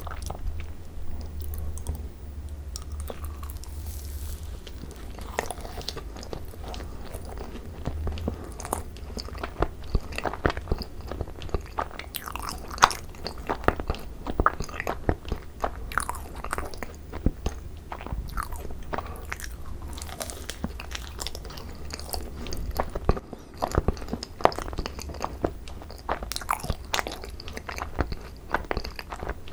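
A person biting into and chewing thick-filled Korean macarons (ttungcaron): the crisp meringue shells crackle and crunch in many short, quick clicks, coming thicker about a third of the way in.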